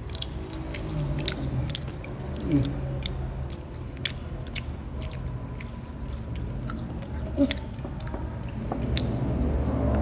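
A man and a boy chewing McDonald's French fries close to the microphone: wet chewing with many small, sharp mouth clicks and smacks scattered throughout.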